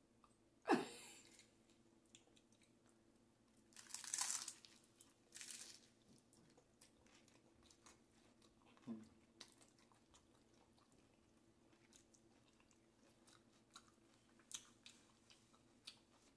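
Crunching bites into hard corn taco shells and close chewing, loudest in short crackly bursts about four and five and a half seconds in, with faint mouth clicks between. Near the start there is a short sound that slides down in pitch.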